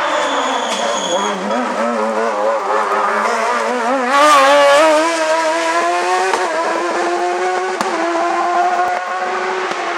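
Hillclimb race car engine under hard throttle: its revs dip near the start, waver rapidly as the car loads up through a bend, and peak loudest around four to five seconds in, then climb steadily as it accelerates up the hill.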